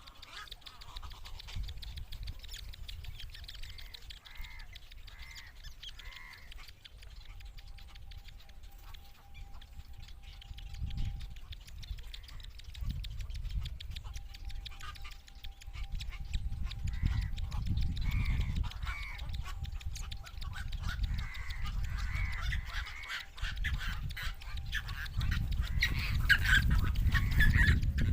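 Nestlings of a fish-eating bird calling in groups of short, squawking cries, over a low rumble that grows louder toward the end.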